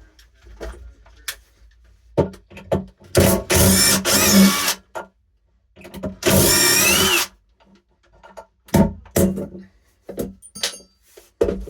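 Power drill running in two bursts, about a second and a half and then about a second long, its motor whine wavering in pitch, with scattered knocks and clicks in between.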